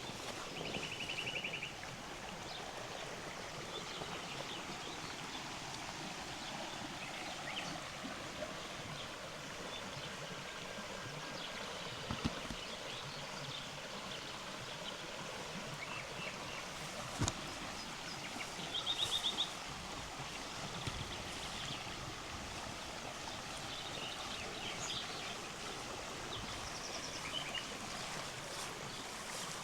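A river running steadily over stones, with birds calling: two short, rapid trills, about a second in and again just before the 20-second mark, and scattered chirps.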